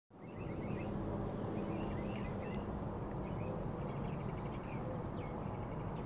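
Birds chirping and singing in short twittering phrases, a few times over a steady low background hum.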